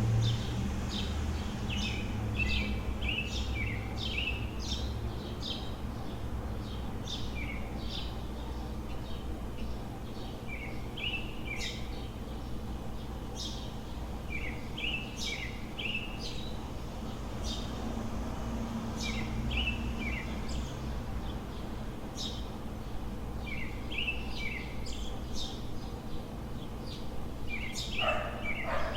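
Small birds chirping in clusters of short, quick, downward-sliding notes every few seconds, over a steady low hum of city traffic. Near the end one call sweeps down lower.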